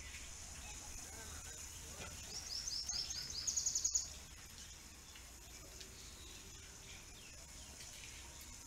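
A bird calling a rapid run of short, high chirps for about two seconds. The run grows louder and breaks off abruptly about four seconds in, over a faint steady hiss.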